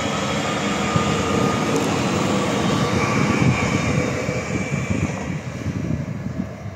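České dráhy electric multiple unit passing close by: a steady rush of wheels on rail with a thin high whine over it. The noise fades over the last couple of seconds as the train moves away.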